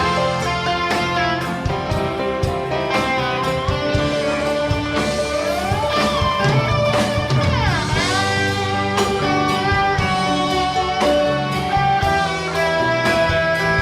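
Live rock band playing an instrumental passage between sung verses: an electric guitar lead with notes that slide up and down in pitch, over rhythm guitar, bass and drums.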